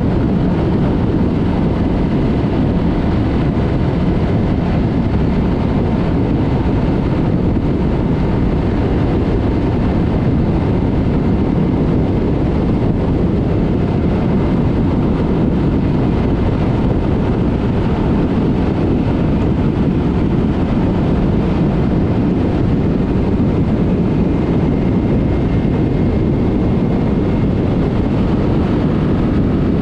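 Yamaha MT-03 motorcycle with a Mivv aftermarket exhaust ridden at a steady cruise, its engine and the rushing wind blending into an even low rumble with no gear changes or revving.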